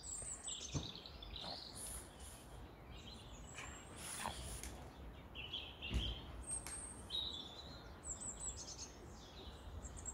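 Small birds chirping, with short high calls scattered throughout, and a few faint knocks under a low outdoor hiss.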